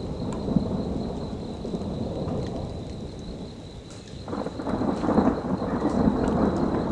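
Thunder rumbling through steady rain. The rumble eases toward the middle and swells again about four seconds in.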